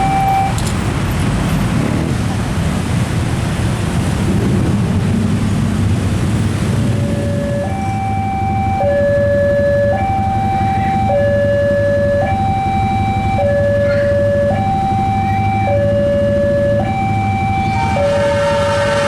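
Railway level crossing warning alarm sounding a two-tone hi-lo signal, switching pitch about once a second. It is drowned for the first several seconds by a loud rushing noise, with a low rumble underneath throughout. A train horn begins right at the end.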